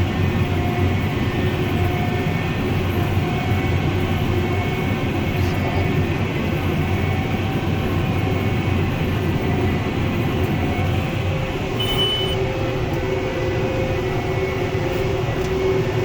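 Tractor and high-density hay baler running steadily under load while baling, a dense, even machine noise with a low hum. A short high beep sounds about twelve seconds in.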